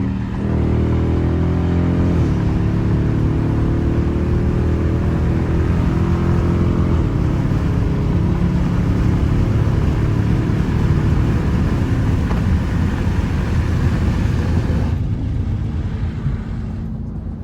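Straight-piped, catless Dodge Charger R/T's HEMI V8 exhaust under hard acceleration, the revs climbing with a gear change about two seconds in and held loud for a long pull. About fifteen seconds in the throttle is lifted and the exhaust drops back.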